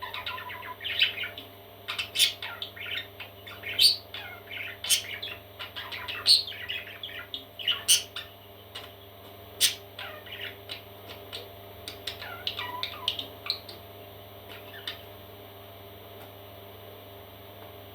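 Parrot chicks chirping and squawking in a busy run of short, sharp calls that dies away about three-quarters of the way through, over a steady low hum.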